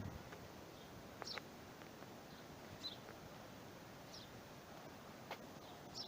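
A bird chirping faintly over a quiet outdoor background: four short, high chirps spaced about a second and a half apart, with a few faint clicks.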